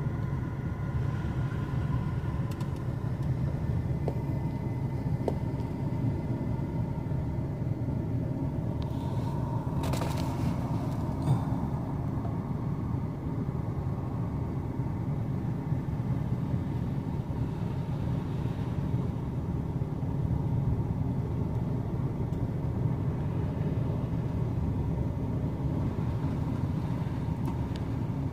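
Steady low rumble with faint steady high tones over it, and a single short click about ten seconds in.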